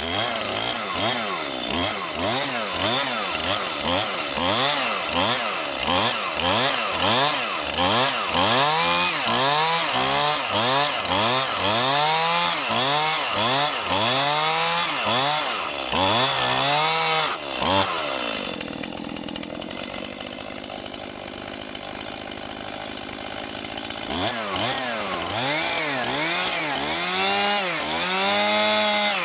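Chainsaw cutting into an oak log, its engine revving up and down over and over as it bores out a chunk. About two-thirds of the way through it drops to a steadier, quieter run, then revs up and down again near the end.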